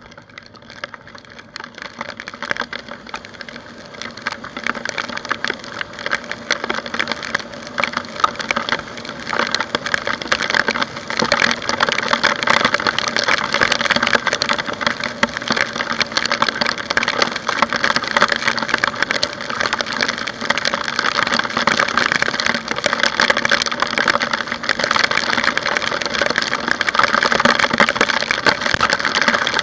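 Dense crackling of raindrops striking a motorcycle-mounted camera, growing louder over the first ten seconds and then holding steady, over the faint steady hum of the scooter's engine.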